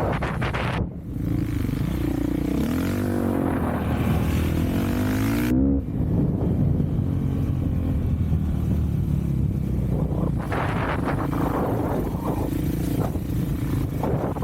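Off-road vehicle engine running under way, its pitch rising and falling as the throttle is worked, most clearly in the first half.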